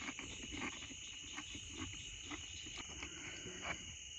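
Steady night chorus of crickets, a high buzzing drone, over soft close crunching and small clicks from someone chewing crackers and sardines.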